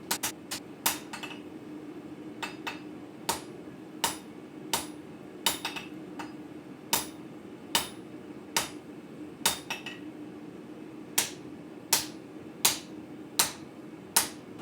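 Hammer blows on 80CrV2 steel over an anvil, forging a blade: sharp metallic strikes coming a little more than one a second, with a steady low hum underneath.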